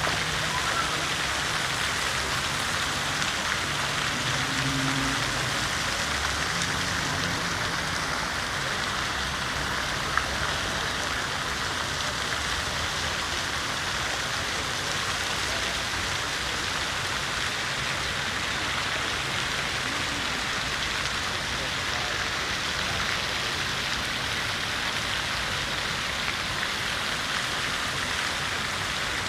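City fountain's water splashing steadily into its basin: an even, continuous hiss of falling water.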